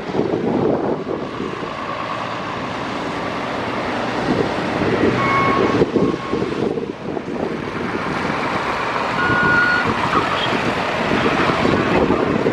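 Lorries and road traffic running steadily, with wind buffeting the microphone. A few short high-pitched tones sound around the middle and again later.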